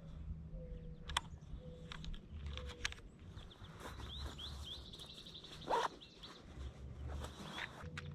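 Wild birds calling: short low notes repeating about once a second, and a run of quick high chirps through the middle, with a few light clicks and one brief louder sound about two-thirds of the way through.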